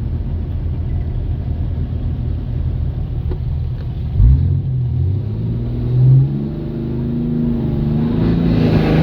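Ram 3500's Cummins 6.7-litre inline-six turbo diesel under heavy load pulling a sled. It drones low and steady, then about four seconds in the revs climb, dip briefly near six seconds and climb again.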